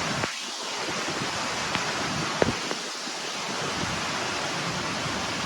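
Waterfall pouring down in a steady, loud rush of water. Two or three short knocks stand out over it, the loudest about two and a half seconds in.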